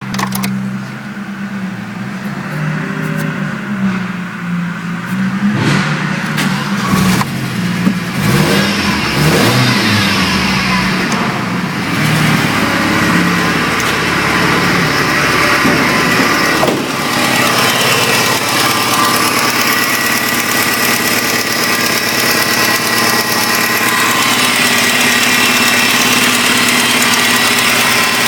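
Opel Vectra B's 1.8-litre X18XE four-cylinder petrol engine running: a low, wavering idle at first, then revved up from about eight seconds in and held at higher, steady revs.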